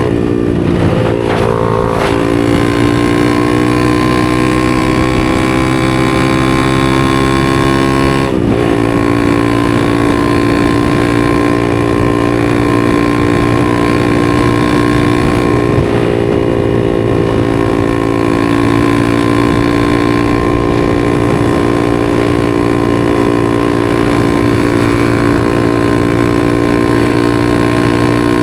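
250 cc single-cylinder supermoto engine running under way at fairly steady revs, with its pitch shifting near the start and a brief break and change about eight seconds in, as with a gear change.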